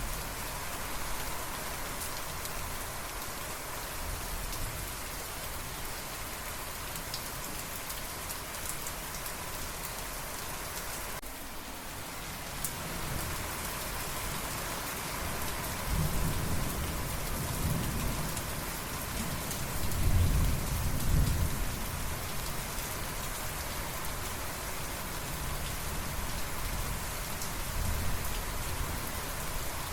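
Steady rain falling, with a roll of thunder rumbling in a little past halfway, loudest about two-thirds of the way through, then sinking back under the rain.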